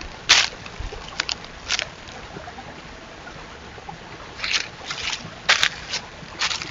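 White-tailed deer biting and chewing apples: a series of short, irregular crunches, sparse at first and bunching together in the second half.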